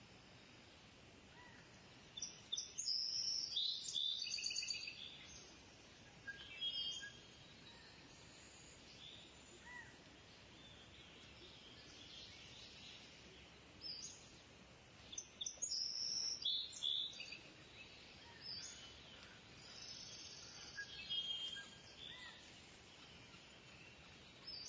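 Kingfisher calling: bouts of shrill, high-pitched chattering calls, loudest a couple of seconds in and again about two-thirds of the way through, with shorter calls between, over a faint steady outdoor hiss.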